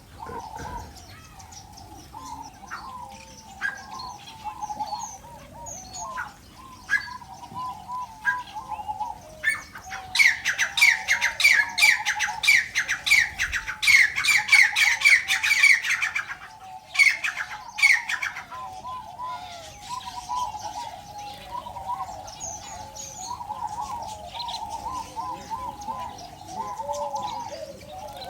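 A flock of aviary birds calling: a steady chattering warble runs throughout. From about ten to sixteen seconds in, one bird gives a loud run of rapid squawking chirps, about five a second, and two more sharp calls follow shortly after.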